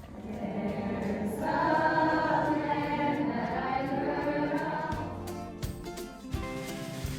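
A chorus of voices singing with musical accompaniment, as in a stage musical; the singing swells about a second and a half in and gives way to steadier instrumental music near the end.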